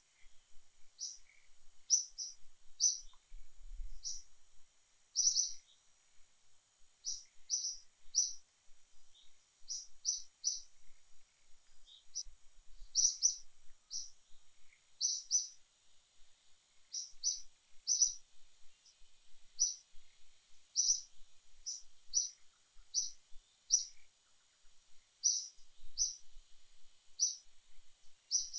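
A bird calling over and over with short, high chirps, about one every second, some in quick pairs or threes, over a faint steady high-pitched hiss.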